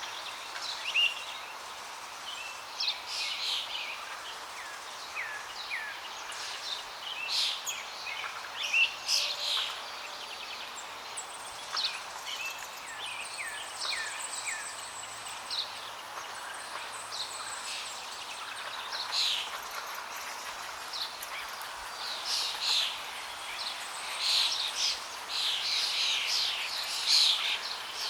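Several birds chirping and calling in many short, overlapping notes over a steady rush of flowing water; the chirping grows denser near the end.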